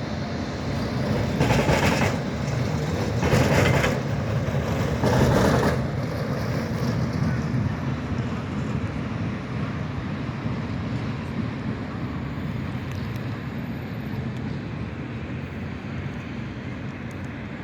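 Street traffic with trams running: steady rumbling road and rail noise, and three loud rushing bursts in the first six seconds as vehicles go past.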